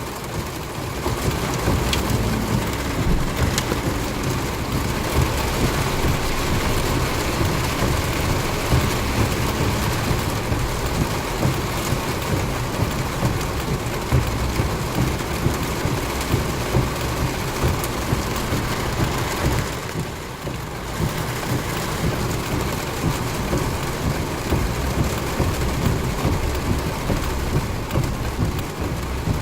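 Heavy rain pouring steadily in a thunderstorm, with a brief drop in level about two-thirds of the way through.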